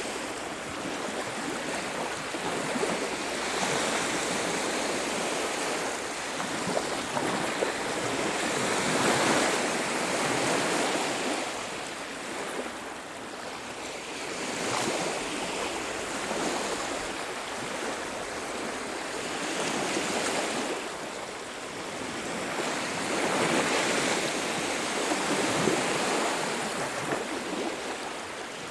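Waves breaking and washing up a beach, swelling and easing every few seconds in a continuous surf hiss.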